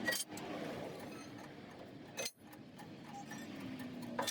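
Three sharp, light metallic clicks, near the start, in the middle and near the end, over faint steady background noise.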